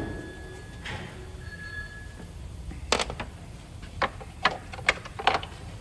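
Hand tools knocking and clinking against car parts: about seven sharp knocks spread over the last three seconds. A faint, steady high tone runs until about two seconds in.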